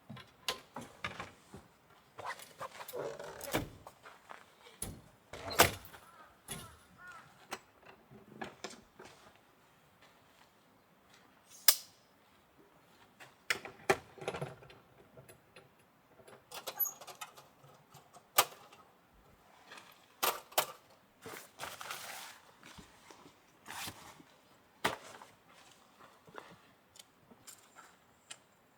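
Things being handled by hand: irregular clicks, knocks and clinks with rustling in between, and a few sharper, louder clacks.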